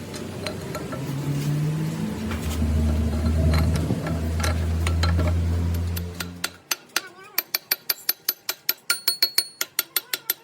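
A low machine hum that shifts in pitch, then cuts off about six seconds in. Rapid, evenly spaced metallic clicks follow, about five a second, each with a short high ring.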